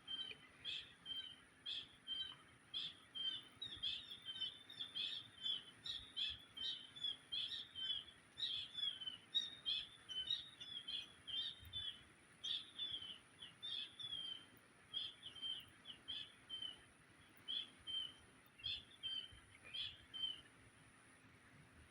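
Kingfisher (tengkek) calling: a long run of short, sharp, repeated notes, about two a second, that thin out and stop near the end.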